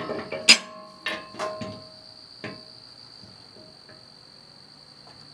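Steel bolts, washers and nuts of a disc harrow kit clinking as they are picked up and handled, a few sharp clinks with the loudest about half a second in, then quieter rattling. A steady high-pitched tone runs underneath.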